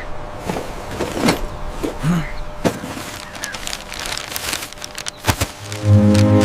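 Irregular knocks and clanks, with a brief rising-and-falling tone about two seconds in.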